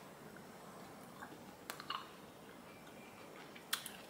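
Quiet chewing of a bite of ripe feijoa: a few faint soft clicks, with one sharper click near the end.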